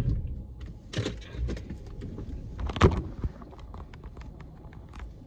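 Scattered clicks and knocks inside a parked car, the louder ones about a second in and just under three seconds in, over a faint low rumble.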